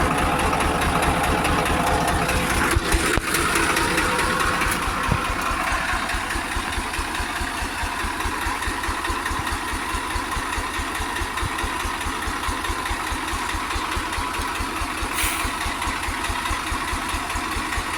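Tractor engine idling with a steady, even run of firing pulses; it is somewhat louder for the first few seconds and then settles.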